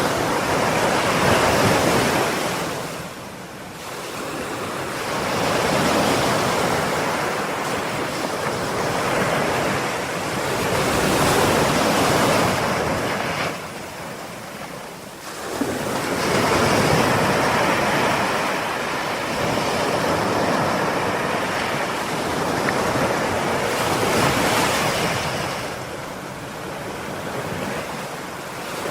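Ocean waves breaking and washing in surf, with the noise swelling and easing as each wave comes in and draws back; clear lulls come about 3 seconds in, around the middle and near the end.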